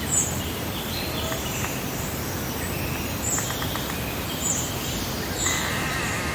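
Small songbirds chirping over a steady, even hiss: a short high call repeats every second or so, with other brief twittering notes between.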